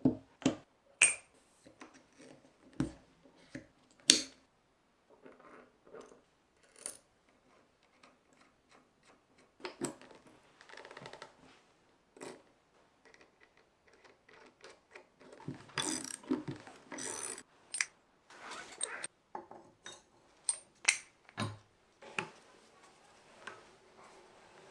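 Hand tools and small metal parts clinking and knocking as they are handled, with a few short stretches of rubbing or scraping.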